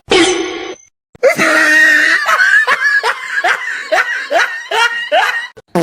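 A person laughing in a quick run of rising 'ha' sounds, about three a second, after a short burst of noise at the start.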